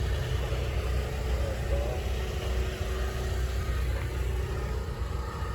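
Car driving along at road speed: steady low engine and road rumble.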